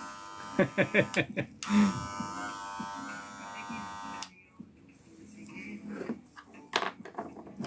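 Restored Wahl Senior electric hair clipper running with a steady hum, which stops abruptly about four seconds in as it is switched off. A voice is heard briefly over it.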